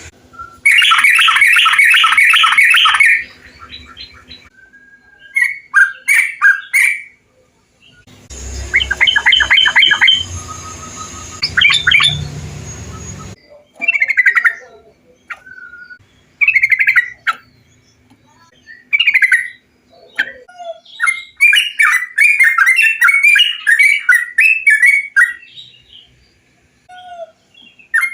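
Trucukan bulbuls singing: repeated bursts of quick chattering notes and short bubbly phrases with pauses between them. In the middle, one stretch of song sits over a low rumbling background.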